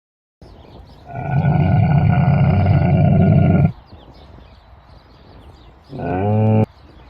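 An animal calling: one long, loud, low call lasting about two and a half seconds, then a shorter call with a bending pitch near the end.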